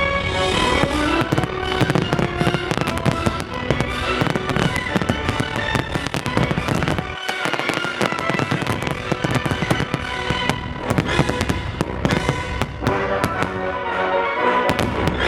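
Fireworks going off in rapid, dense succession with sharp bangs and crackles, over a loud music soundtrack.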